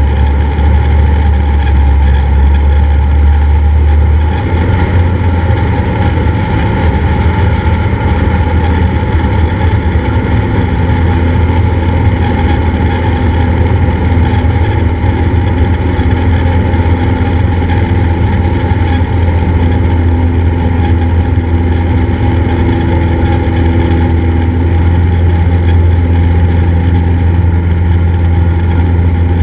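Cessna 172's engine and propeller droning steadily. About four seconds in, the drone steps up slightly in pitch and then holds.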